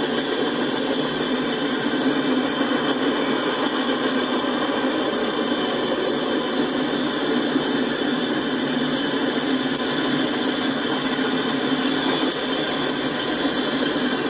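Freight cars rolling past on the rails: a steady rumble of steel wheels on track that holds at one level without letup.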